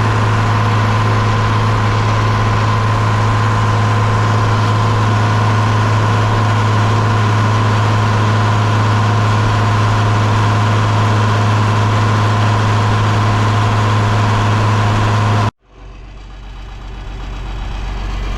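John Deere 4230 tractor's six-cylinder diesel engine running steadily at a constant speed with a strong even hum. Near the end it cuts off abruptly and a deeper, quieter engine rumble takes over and builds up.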